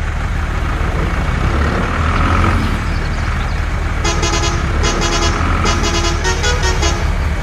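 A truck engine running with a steady low hum, and from about four seconds in a horn tooting a quick series of short notes that shift in pitch near the end, like a musical horn.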